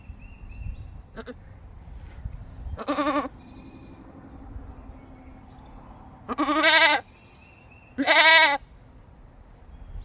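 Goats bleating three times, with a wavering, quavering pitch; the second and third calls are the loudest. The goats are calling to each other because they have been separated.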